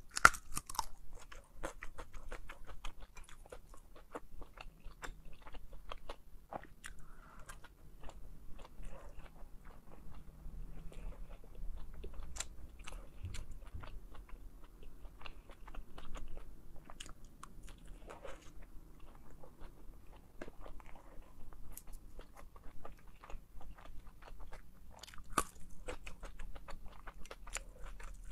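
Close-miked chewing and biting of pan-fried dumplings, with many irregular crisp crunches from the browned wrappers.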